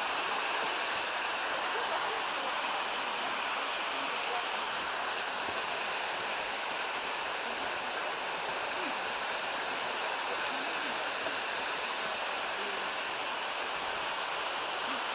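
Steady rushing of a mountain creek's waterfalls cascading over rocks.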